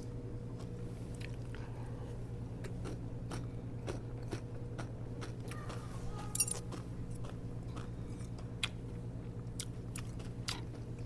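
A person eating: chewing food, with scattered small clicks of a spoon or chopsticks on dishes and one sharper clink a little past halfway, over a steady low hum.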